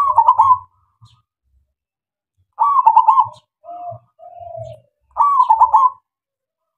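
Male zebra dove (perkutut) singing its rhythmic cooing song: three loud phrases about two and a half seconds apart, with two softer, lower coos just before the third.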